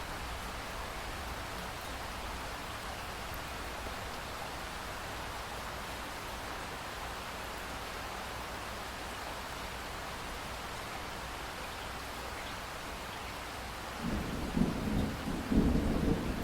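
Steady heavy rain, then a rumble of thunder rolling in near the end, much louder than the rain.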